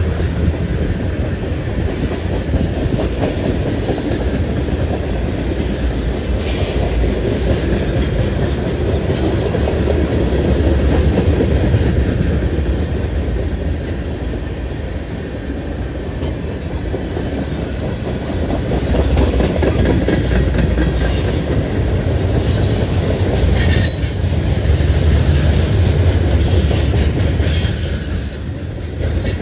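Freight train of tank cars and covered hoppers rolling past close by: a steady rumble of wheels on the rails with clicking over the rail joints and brief high wheel squeals now and then.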